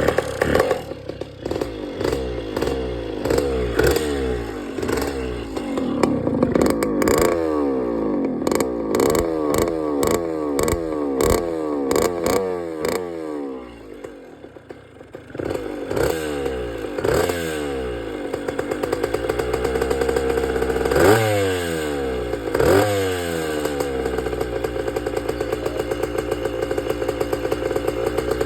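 The single-cylinder two-stroke engine of a 1986 Kawasaki KDX80 dirt bike running just after a cold start, revved up and down over and over. About halfway through it sags and nearly dies before picking up again; after two more quick blips it settles into a steady idle near the end.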